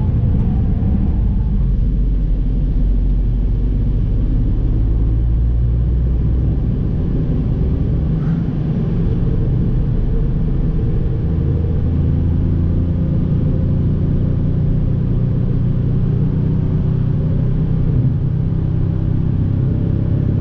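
Toyota Yaris engine and road noise heard from inside the cabin as the car is driven at speed on a race track. The engine drones deep for the first several seconds, then its note steps up about a third of the way in and holds as the car accelerates down the straight.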